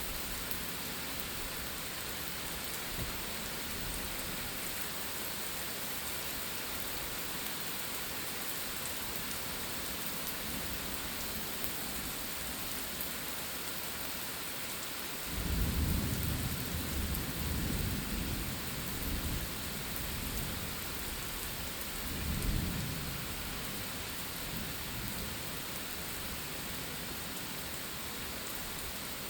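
Steady heavy rain falling. About halfway through, a roll of thunder breaks in and rumbles for several seconds, with a second, shorter swell a few seconds later.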